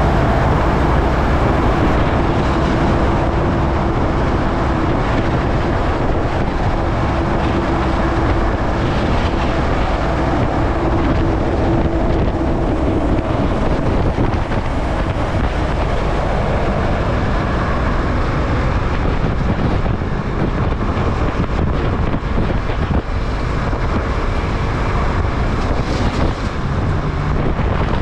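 Yamaha MT-03's parallel-twin engine running as the motorcycle rides along, mixed with wind rushing over the microphone. A steady engine note holds through the first half, then fades back into the wind and road noise.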